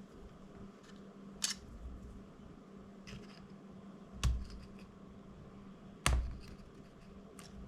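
About five sharp clicks and taps of small tools on the plastic parts of a DJI Mini 2 drone as its silicone-held front LED is pried loose; two of them, near the middle and about two thirds of the way in, are louder, with a dull knock. A faint steady hum lies underneath.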